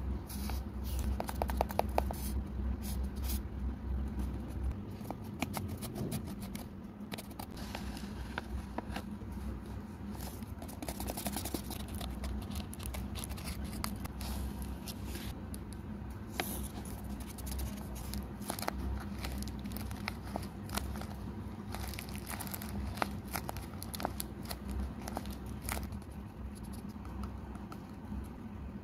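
Paper being handled close up: crinkling, scraping and tearing, with many small sharp clicks and scratches throughout, over a steady low hum.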